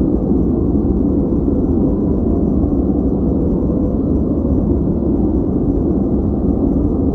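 Steady, unchanging white-noise track filtered deep, a low rumbling hush with almost no hiss at the top.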